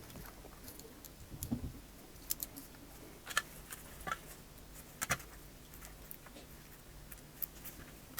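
Scattered small clicks and taps of tools and parts being handled on a smartphone opened for a battery replacement, about eight light sharp ticks spread unevenly over a faint steady background.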